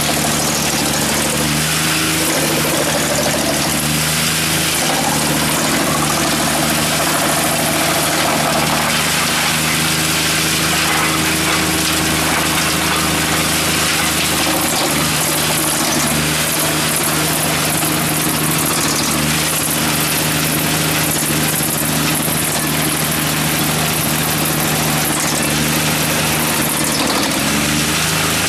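Skorpion 280 SDBG drum wood chipper running, its three-cylinder diesel engine at a steady speed with a loud, even rushing noise over the hum.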